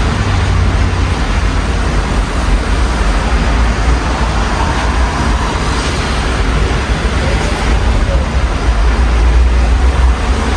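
Steady rain and city street traffic heard through an open window: a continuous even wash of noise over a low rumble.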